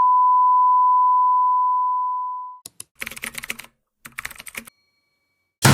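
A steady pure tone, like a test beep, that fades out about two and a half seconds in, followed by two short runs of rapid clicking like keyboard typing.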